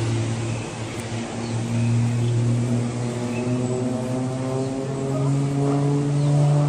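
Propeller airplane engine droning steadily, its pitch rising a little about five seconds in.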